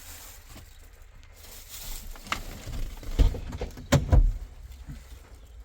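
A few knocks and thumps: a light click about two seconds in and a dull thump a second later, then a sharp click followed closely by a heavier thump about four seconds in.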